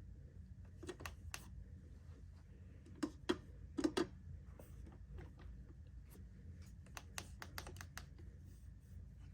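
Irregular light clicks and taps, like fingers and plastic being handled, with a quick cluster of louder clicks about three to four seconds in.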